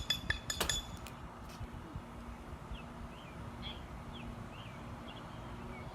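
Faint bird chirps: about a dozen short, quick notes over the last three seconds, above a steady low hum. A few light clicks come in the first second.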